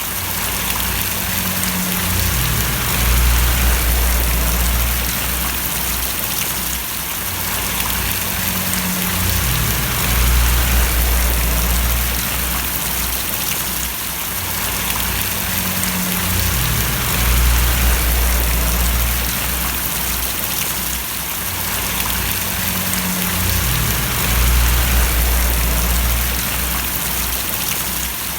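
Steady rain falling and splashing, an even hiss of drops, with a low rumble underneath that swells and fades about every seven seconds.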